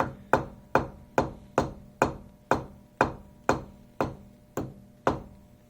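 Steady light hammer taps on a milling-machine vise, about thirteen at roughly two and a half a second, each with a short ring, stopping near the end. The taps nudge the vise round its one tight bolt to bring the jaw parallel to the table's axis while a dial indicator is watched.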